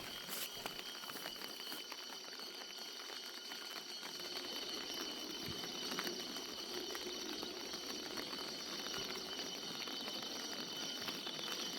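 Quiet outdoor ambience: a steady, high insect trill with faint pattering and small ticks.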